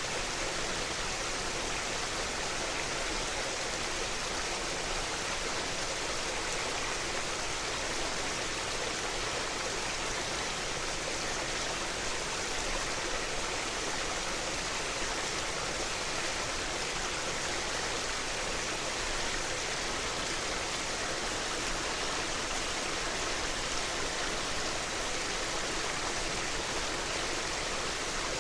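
Mountain headwater stream flowing, a steady, even rush of water with no breaks.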